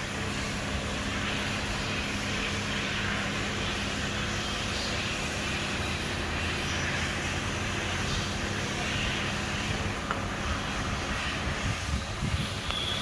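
Steady machine hum over a constant rushing noise, with a few light knocks near the end.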